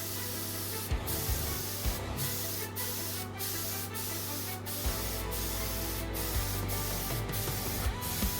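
Spray gun hissing as primer is sprayed in repeated passes, the hiss cutting out briefly about every half to one second between passes.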